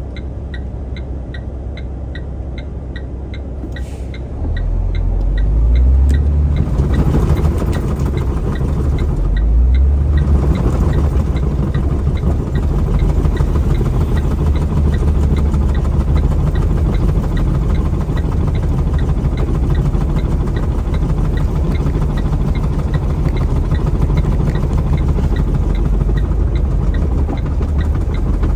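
Heavy truck's diesel engine heard from inside the cab, running with a regular ticking at first. About four seconds in it rises in level and stays loud, working hard under load as the truck pulls up a snowy, slippery grade.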